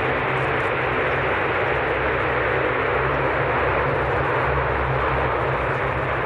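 Aircraft engines running, a steady rushing noise with a low hum underneath that holds level without rising or falling.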